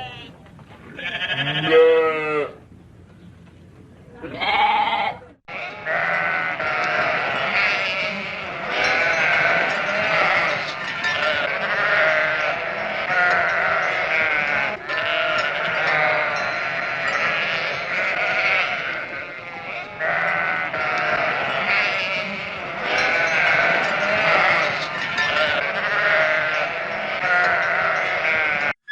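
Sheep bleating: a few separate bleats at first, then from about five seconds in a whole flock bleating at once, many calls overlapping without a break.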